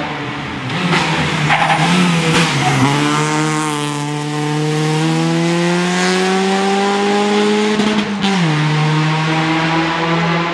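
Opel Astra rally car driving hard past on a tarmac stage. Its engine note dips about two and a half seconds in, then the revs rise steadily for about five seconds under full acceleration. Near eight seconds an upshift makes the pitch fall suddenly, and the engine pulls on at a steady note.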